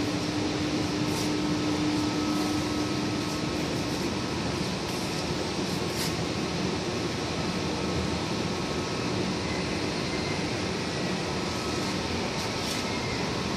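Ice cube machine running: a steady mechanical hum and rush from its fan and compressor, with a low tone that fades out about four seconds in.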